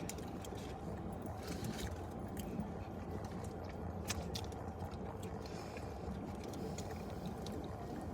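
Steady low rumble with scattered small clicks and scrapes of people eating and handling fast-food packaging.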